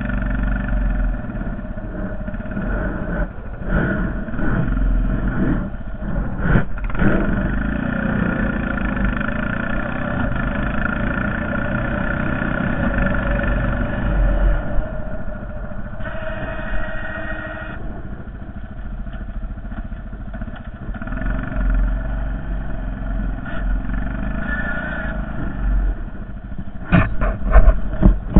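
Honda Foreman TRX450ES ATV's single-cylinder four-stroke engine running under load while plowing snow, its engine speed rising and falling. A few sharp knocks come near the end.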